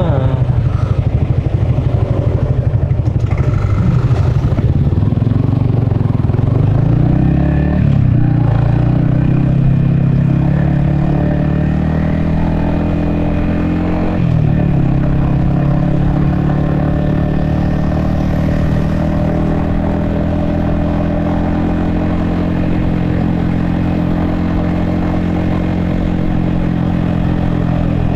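Yamaha XSR155's single-cylinder engine running at a low pulsing beat, then pulling away. The engine note rises about seven seconds in, dips and climbs again at a gear change about fourteen seconds in, then holds a steady cruising note.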